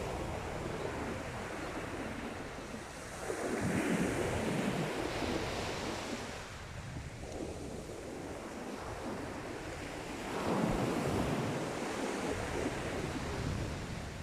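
Sea waves breaking and washing on the beach, with two louder surges as waves come in, about a third of the way in and again about three quarters of the way in.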